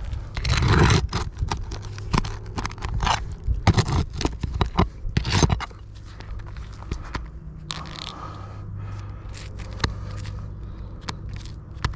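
Low-profile flat bar scraping and prying under roof shingles to pop out roofing nails: a run of rough scrapes through the first half, then scattered sharp clicks, over a steady low hum.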